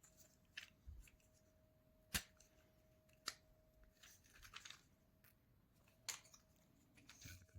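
Faint, scattered clicks and taps of small basswood model parts being handled and pressed together, about seven light knocks spread over several seconds.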